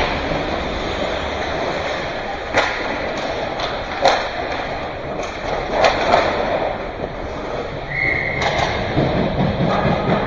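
Ice hockey play on a rink: sharp knocks of puck and sticks against each other and the boards over a steady hiss of skates and arena noise, with a short high tone about eight seconds in.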